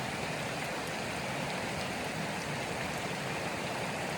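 Steady rushing of running water from a stream.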